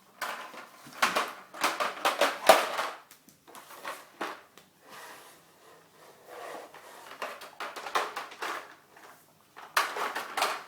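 A toy truck clattering and knocking as a baby plays with it: irregular rattles and knocks, busiest in the first few seconds and again near the end.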